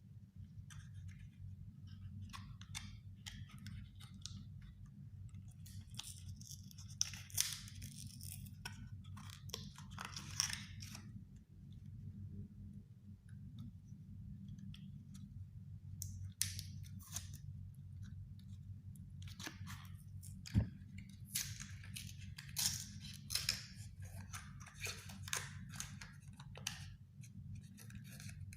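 Cardboard from a cigarette pack being cut with scissors and handled, in clusters of crisp snips and crinkles with one sharp click about two-thirds of the way in, over a steady low hum.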